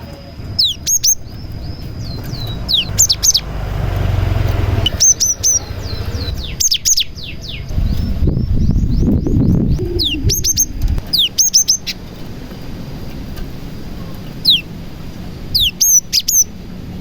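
Cinereous tit (gelatik batu) singing in quick clusters of sharp, very high notes that each fall steeply in pitch, a song said to carry prinia (prenjak) imitations. A low rumble runs underneath, louder around four seconds in and again around nine seconds in.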